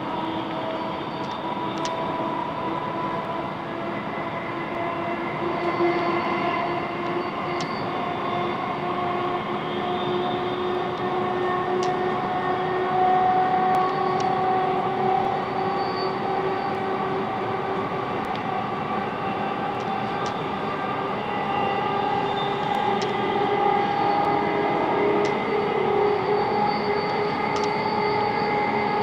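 Class 707 Desiro electric multiple unit running between stations, heard from inside the carriage: a steady running noise with the traction motors' whine in several tones that drift slowly in pitch, and scattered faint clicks.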